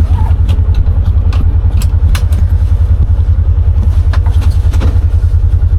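Side-by-side UTV engine running at low speed, an even low throb, as the machine works through deep snow. Scattered light knocks and clicks sound over it.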